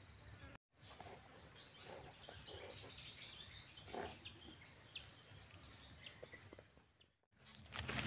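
Faint outdoor ambience with a few short, high bird chirps over a steady thin high-pitched whine; the sound drops out briefly twice.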